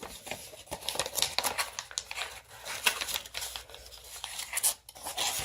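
A sheet of paper being folded and creased by hand, rustling and crinkling in many short, scratchy crackles.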